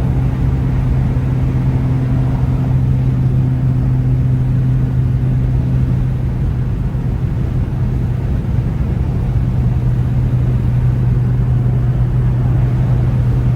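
Straight-piped exhaust of a BMW 335i's N55 turbocharged straight-six, droning loudly at a steady cruise from inside the car, with road noise underneath. The pitch holds level, with no revving and no pops.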